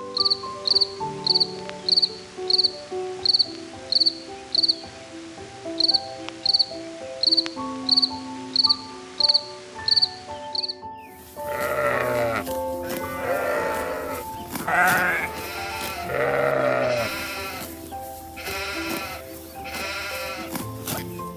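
Background music with a simple melody and a ticking beat, about two ticks a second, for the first eleven seconds or so. Then, over the music, several long, wavering bleats of a farm animal.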